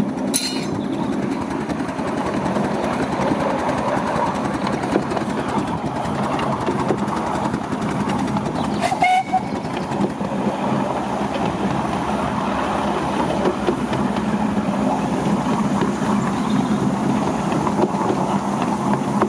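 A 10.25-inch gauge miniature railway train running along the track, a steady continuous rumble with a brief sharp sound about nine seconds in.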